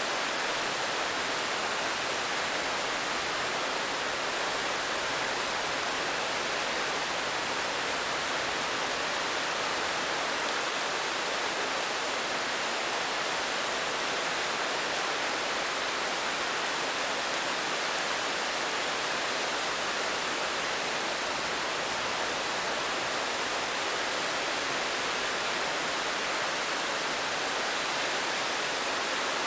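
Steady rain falling, a dense even hiss without distinct drops.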